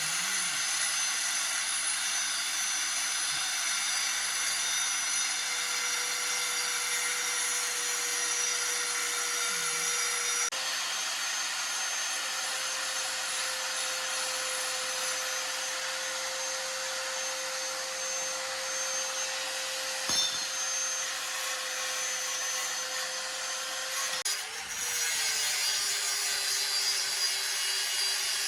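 A power tool running continuously with a steady motor whine and a dense grinding or sanding noise. About twenty-four seconds in, the whine dips and settles at a lower pitch.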